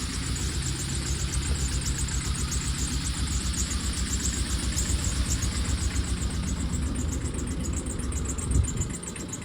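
Tata Ace small truck's engine running steadily with an even low pulsing rumble, with a brief louder thump near the end.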